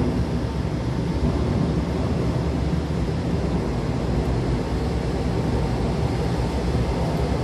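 Hanshin electric train running with its doors shut, heard from inside the car: a steady low rumble of wheels and running gear on the rails, with no pauses or sharp events.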